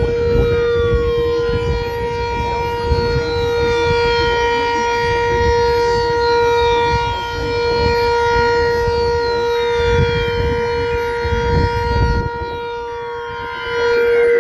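Sentry 7V8 outdoor tornado warning siren sounding a steady tone for the drill. It grows somewhat fainter about twelve seconds in and swells back up just before the end, as the rotating siren head turns away and back.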